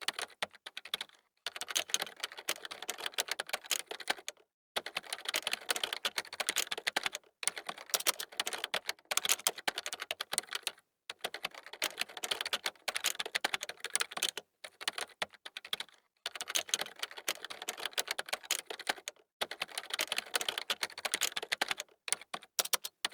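Computer keyboard being typed on fast, in runs of rapid key clicks lasting a second or three, broken by brief pauses.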